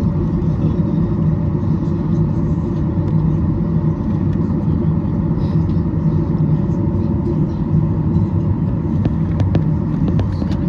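Steady, loud cabin rumble of a Boeing 737-800's CFM56-7B jet engines and airflow, heard from inside the passenger cabin, with a low held tone under it. A few light clicks or rattles sound near the end.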